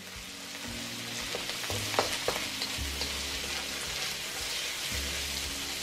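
Onion, mangetout and button mushrooms sizzling in hot oil in a wok as a wooden spatula stirs them, with a few light clicks of the spatula against the wok about two seconds in.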